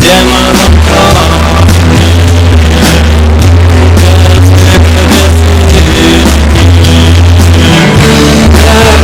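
Rock music with drums, guitar and a deep, sustained bass line, playing loud and without a break.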